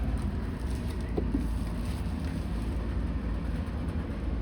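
Wind rumbling and buffeting on the microphone, a steady low rumble.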